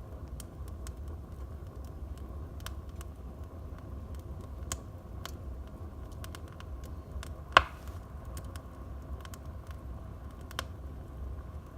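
Wood fire burning in a fireplace: scattered small crackles over a low steady rumble, with one sharp, much louder pop a little past halfway.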